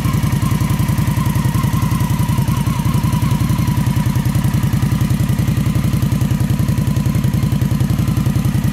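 2015 Indian Scout's V-twin engine idling steadily through its Indian Stage 1 exhaust: an even, nice and throaty low pulse.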